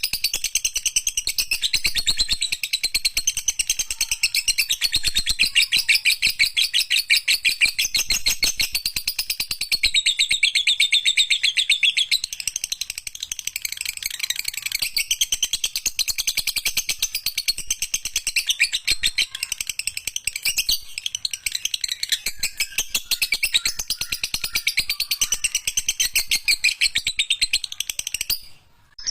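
Lovebird singing its long, unbroken chattering song ('ekek panjang'): a very fast run of high chirps that breaks off briefly near the end.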